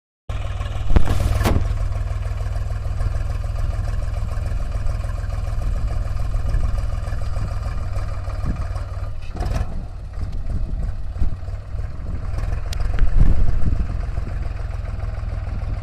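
Diesel engine of a tractor or backhoe loader running steadily, with a few sharp knocks about a second in and again near ten seconds.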